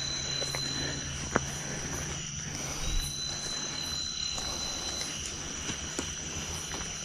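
Night chorus of crickets and other insects trilling steadily at a high pitch, with frogs calling, and a sharp tap about a second and a half in.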